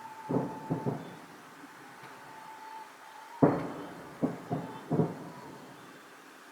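Fireworks shells bursting: a run of sharp booms, each trailing off in an echo. A few come early on, and a tighter cluster starts with the loudest about three and a half seconds in.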